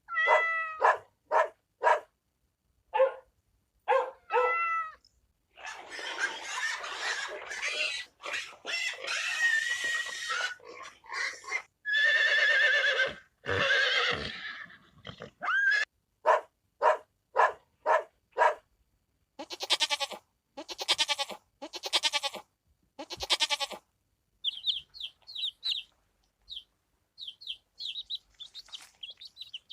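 A run of separate animal calls, one after another with short gaps: short calls at first, longer calls from about six seconds in, calls with a wavering pitch around two-thirds of the way through, and a string of short high chirps near the end, mostly farm-animal voices.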